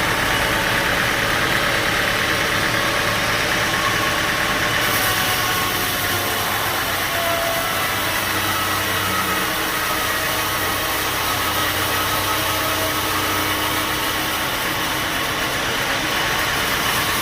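Sawmill machinery running steadily with a continuous engine-like drone. The highest hiss gets louder about five seconds in.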